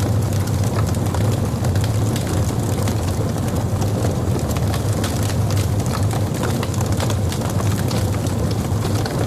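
Logs burning in a fireplace: a steady low rumble of flames with frequent small crackles and pops throughout.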